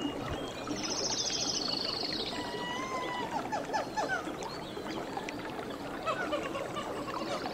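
Many short animal calls and chirps over a steady background hiss, with a fast high-pitched trill from about half a second in that lasts nearly two seconds.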